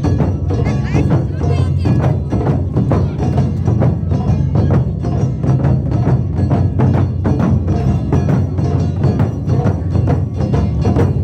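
Japanese taiko drum ensemble playing live: a loud, dense stream of drum strikes keeping up a fast, driving rhythm with no break.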